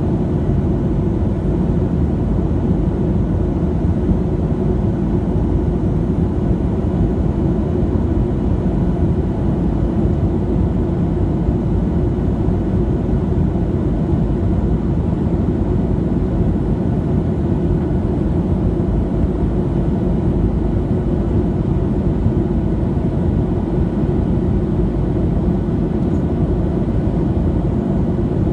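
Steady roar of a Boeing 737-700 heard inside the passenger cabin: the CFM56-7B engines and the airflow over the fuselage make a deep, even rumble with a few faint steady tones above it.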